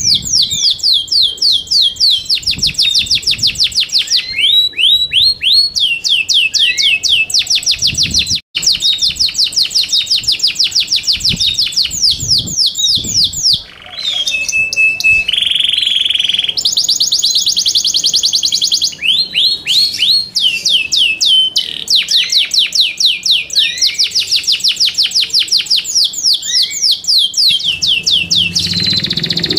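Yorkshire canary singing: long, rapid trills of repeated high chirps, some notes sweeping down and others up, with one steady held note about halfway through. The song breaks off for an instant about eight seconds in.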